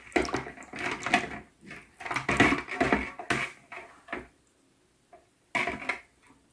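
A milk, egg and spice marinade being mixed in a bowl, the utensil stirring and clinking against the bowl in irregular strokes. The strokes stop about four seconds in, with one more brief burst near the end.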